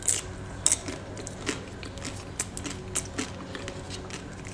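Close-up chewing of a pink, sugar-speckled ball sweet off a stick: irregular crisp crunches and crackles a few times a second, the sharpest just after the start.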